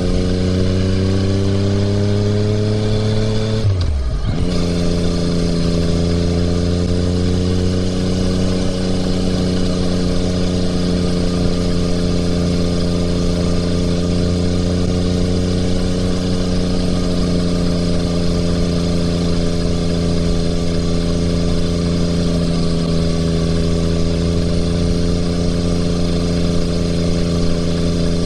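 2020 Yamaha MT-09's three-cylinder engine through an Akrapovič exhaust, revs rising under acceleration, then dropping sharply about four seconds in as on an upshift, before running at fairly steady cruising revs.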